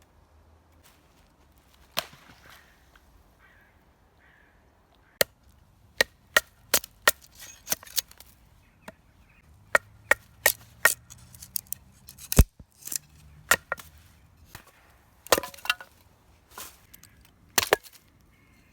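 Sharp chopping strikes on wood: one blow about two seconds in, then an irregular run of about twenty blows, several a second at times, with short pauses between groups.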